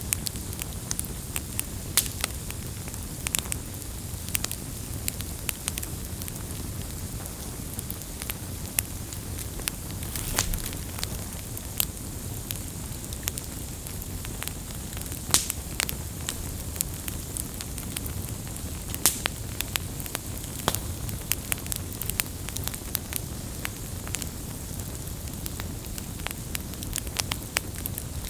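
Wood fire burning: a steady low rush of flame with irregular sharp crackles and pops throughout, a few of them louder.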